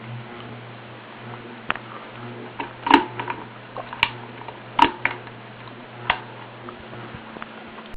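Ceiling fan running with a steady low motor hum, with a few irregular sharp clicks and knocks, the loudest about three and five seconds in.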